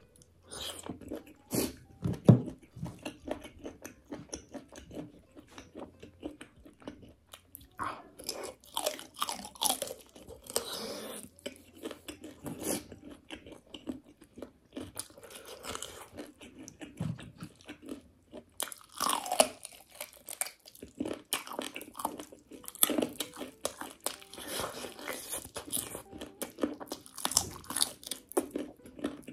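Close-miked biting and chewing of curried chicken pieces: irregular wet crunches, smacks and crackles from the mouth as the meat and cartilage are chewed.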